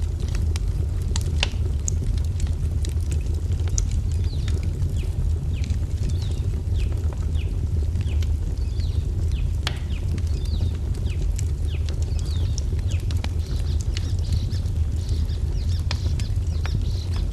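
Wood fire crackling with frequent sharp pops over a steady low roar, mixed with birds chirping in short falling notes that come thicker near the end.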